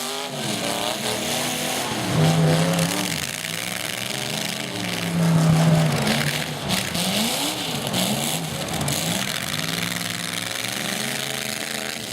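Demolition derby truck engines revving again and again, their pitch rising and falling, with two louder held revs about two seconds in and about five seconds in.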